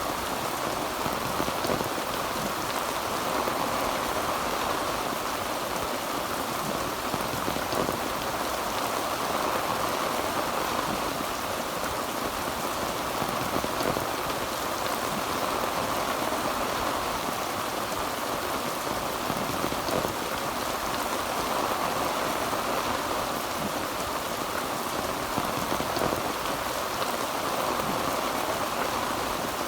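Heavy rain pattering steadily on a tin roof, a dense even patter of drops on metal.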